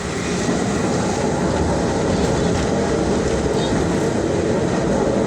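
Steady rumbling running noise of a diesel railcar heard from inside the carriage, growing a little louder about half a second in.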